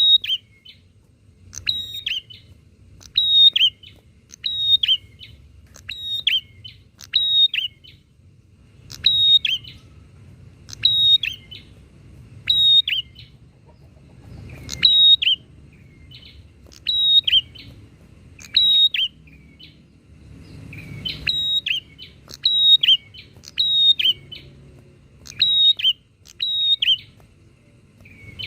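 Prenjak (prinia) calling: short, sharp downslurred chip notes repeated a little under once a second, with brief pauses. Faint low background rumble underneath.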